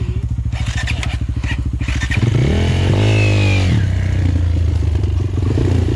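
Trail motorcycle engine chugging at low revs, then opened up louder about two seconds in, its pitch rising and falling as it is revved.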